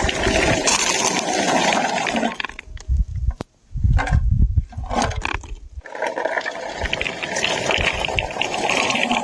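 Lingonberries rustling and pattering as they are gathered into a bucket, a pouring, rattling sound in two long spells with a stretch of low knocks and handling noise in between.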